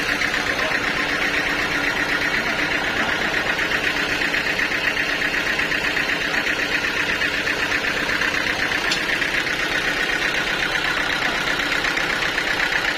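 Sawmill machinery running steadily, a fast, even mechanical pulsing with no change in load.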